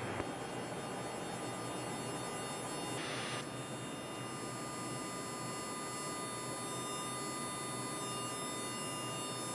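Steady flight deck background noise in a Boeing 767-300ER on approach: an even hiss with an electrical hum and several faint steady tones. A brief burst of hiss comes about three seconds in.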